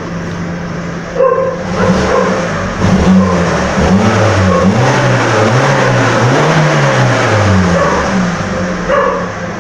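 Fiat Siena's 1.0 Fire four-cylinder petrol engine revved up and down several times, its pitch rising and falling in waves, then settling back toward idle near the end.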